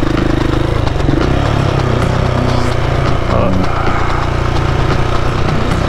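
KTM 690 Enduro's single-cylinder engine running steadily under way, heard from on the motorcycle as it rides along a sandy beach.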